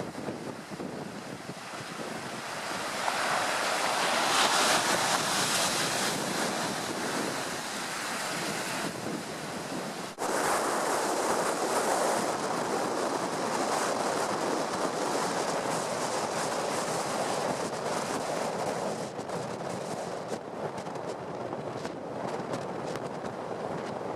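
Sea surf breaking during a storm-force wind, with the wind buffeting the microphone. It is a steady rush of noise that swells a few seconds in and breaks off briefly about ten seconds in.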